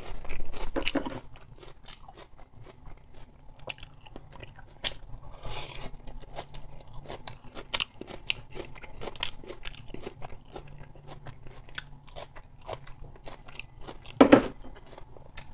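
Close-miked chewing of food, with many small crunches and mouth clicks, and a short louder burst about a second before the end.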